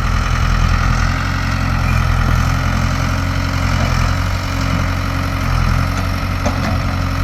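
An old backhoe's engine running steadily while it works digging around a tree.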